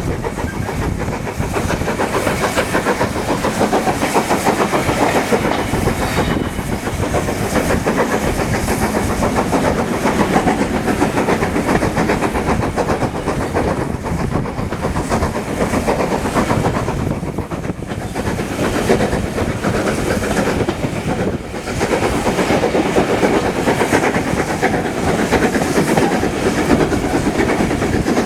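Heritage railway train running along the track: a steady, dense rumble with the clickety-clack of wheels over rail joints, dipping briefly twice midway.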